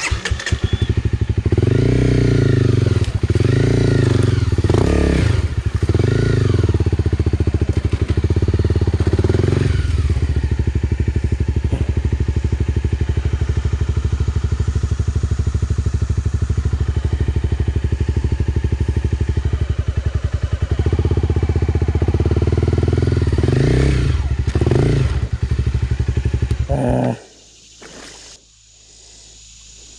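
Honda CRF250L's single-cylinder engine revving hard while the bike is stuck in a shallow riverbed with its rear tire spinning out. The revs rise and fall repeatedly, hold high and steady through the middle, then rise and fall again before the engine cuts out suddenly near the end.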